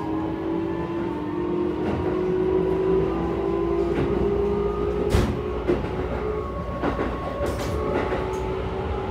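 Keikyu 1000 series train's Toyo IGBT-VVVF inverter and traction motors whining as the train accelerates, heard from inside the car. The tone climbs slowly in pitch over the first five seconds. Wheel clicks over rail joints come through, with a sharp knock about five seconds in and another near seven seconds.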